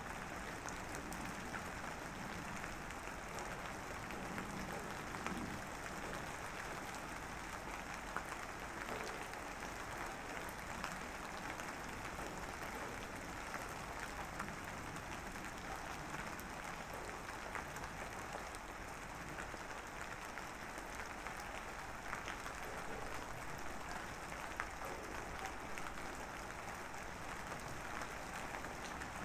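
Steady rain falling, an even patter with scattered sharper drops.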